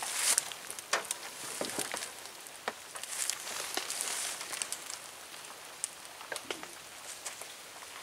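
Steady hiss of rain, with scattered light clicks and short rustles of nylon tent fabric being handled.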